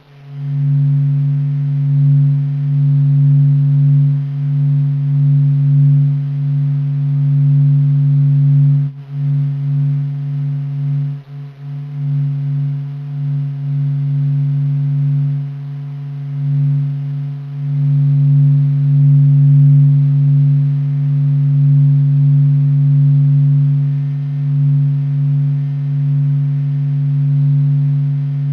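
NASA's sonified sound of the sun, the sun's vibrations made audible: a steady low drone on two main tones with fainter higher overtones, wavering gently in loudness and dipping briefly about nine and eleven seconds in.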